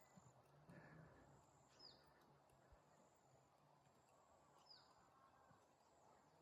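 Near silence, with a faint, high, short downward-sweeping bird chirp heard twice, about three seconds apart.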